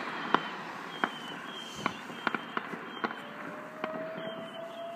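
Fireworks banging and popping in the distance, scattered sharp reports about one or two a second over a steady background hiss. A long faint whistle comes in near the end.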